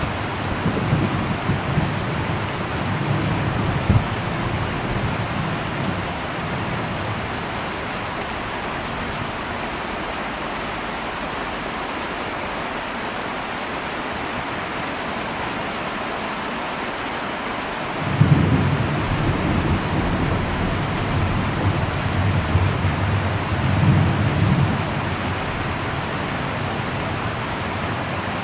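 Heavy rain falling steadily on an old metal roof, with a low rumble of thunder at first that dies away. About eighteen seconds in a new roll of thunder breaks in suddenly and swells again some six seconds later.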